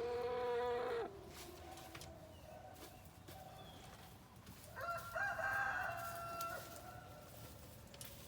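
Chickens calling: a drawn-out call of about a second at the start, then a longer held call about five seconds in, each on a steady pitch.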